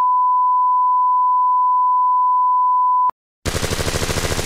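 A censor bleep, one steady 1 kHz tone held for about three seconds over a profanity, cuts off abruptly. After a brief silence, a rapid burst of machine-gun fire starts near the end.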